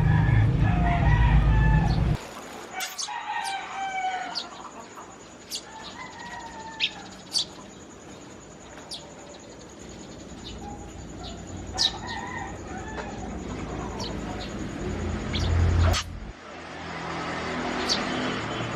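Chickens clucking and a rooster crowing, with short sharp high chirps from small birds scattered throughout. A loud low rumble covers the first two seconds and comes back briefly near the end.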